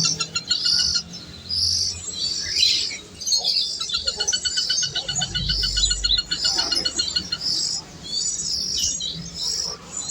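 Birds chirping: short high calls repeated over and over, over rapid pulsing trills.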